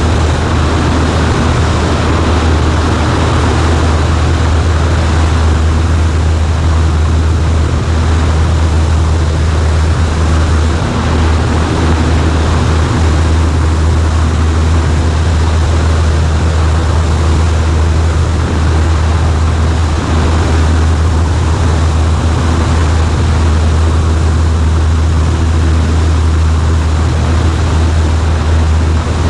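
Cessna 140A's piston engine and propeller droning steadily, heard from inside the cockpit, with a deep, even tone and no change in power.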